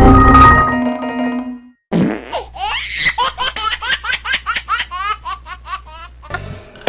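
A short musical sound-effect tone fades out, then a high-pitched cartoon laugh starts about two seconds in: a fast run of short giggling pulses, about four or five a second, lasting roughly four seconds.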